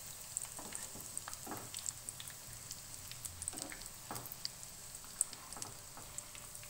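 Breaded potato cutlets shallow-frying in oil on low heat: a steady sizzle with scattered crackles, and a few knocks of a spatula in the pan as they are turned over.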